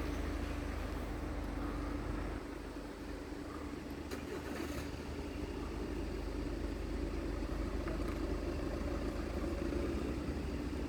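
A vehicle engine running steadily at idle, a low rumble with a constant hum that rises slightly in pitch about halfway through.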